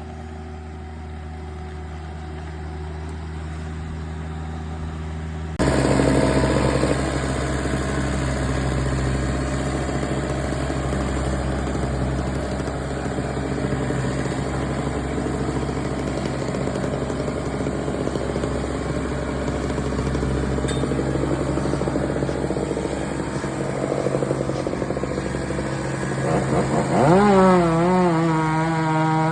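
A small engine runs at a steady speed and turns louder and rougher about five seconds in. Near the end an engine revs up with a rising pitch.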